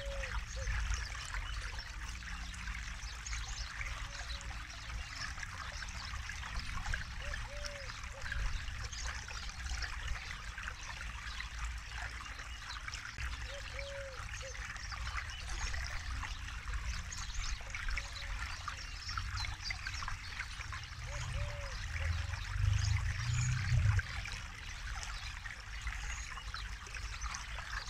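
Forest river flowing and trickling over stones, a steady splashing rush with brief gurgles every few seconds. A deeper low rumble swells for a few seconds about three quarters of the way through.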